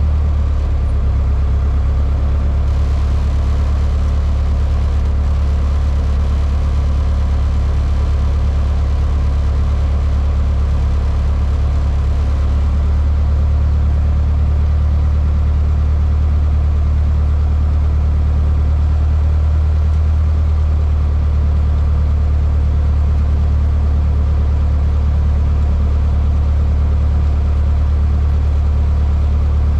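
Cessna 152's four-cylinder Lycoming piston engine and propeller droning steadily, heard from inside the cockpit, with a slight change in tone about 13 seconds in.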